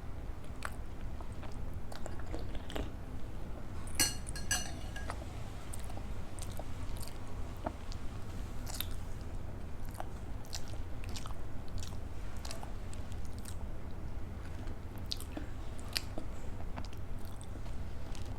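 Close-miked chewing and wet mouth sounds of someone eating idli with sambhar and chutney, with scattered small clicks and a brief cluster of clicks about four seconds in.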